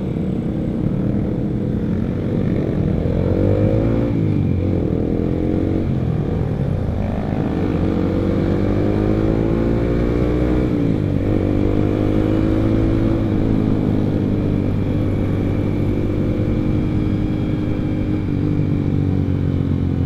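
Honda CBR150R's single-cylinder engine through an R9 aftermarket exhaust, accelerating through the gears on the road. The pitch climbs, drops sharply at two gear changes, then holds near steady at cruising speed.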